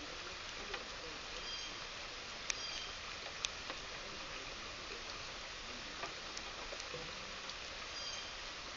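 Steady rain falling, with sharp drips and taps of drops landing and a few brief high chirps from small birds.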